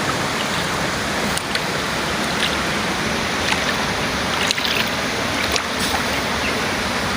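Steady rush of water, with a few faint short ticks and knocks on top.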